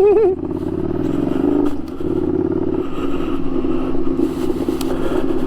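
Ducati Scrambler 800's air-cooled L-twin running through an unbaffled Arrow titanium exhaust while riding along, the engine note easing off briefly about two seconds in before it picks up again.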